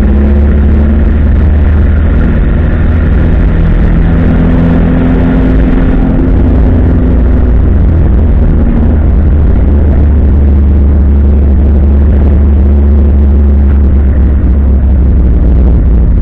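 1970 Opel Commodore A race car's straight-six engine running hard on track, loud from inside the cabin, its pitch shifting up and down with the throttle and gears.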